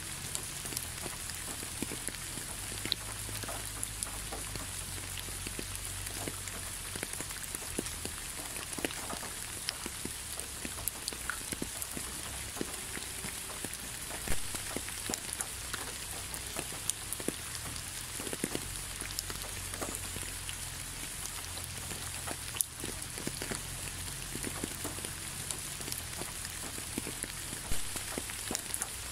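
Steady rain falling, a dense even hiss sprinkled with many small drop ticks and a few louder single drops.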